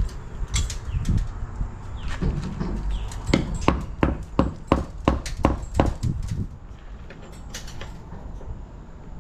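Hammer blows on the stone facing of a masonry porch column, knocking stone loose: a few scattered knocks, then a steady run of about three blows a second through the middle, over a low rumble.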